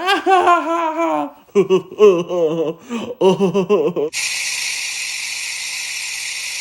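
Voices with a wavering, sing-song pitch for about four seconds, then a steady hiss for nearly three seconds that cuts off suddenly.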